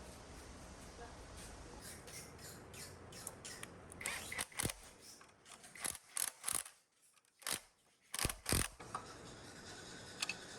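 A series of sharp mechanical clicks and taps in a workshop, scattered at first, then louder and closer together between about four and nine seconds in.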